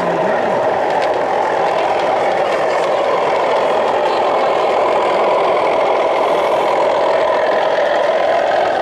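Sound-fitted O gauge model diesel locomotive engine idling steadily through its small onboard speaker, thin in the bass.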